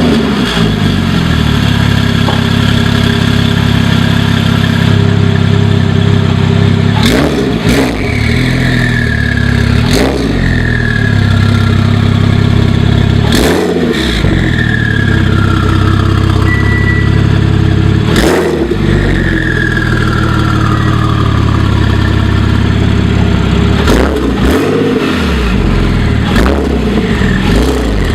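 Porsche 997.2 911 Turbo's twin-turbo 3.8-litre flat-six with a catless Europipe exhaust, running steadily and then revving hard several times. After each rev a high turbo whistle falls in pitch as the throttle closes.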